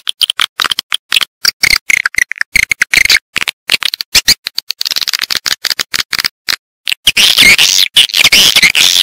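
Edible-nest swiftlet lure call: a choppy run of short, sharp clicking chirps with gaps between them, turning into dense, continuous twittering about seven seconds in.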